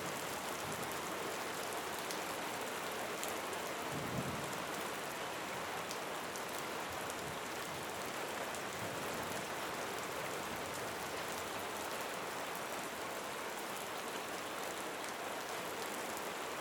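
Steady rain falling, an even hiss with scattered fine drop ticks, and a brief low thud about four seconds in.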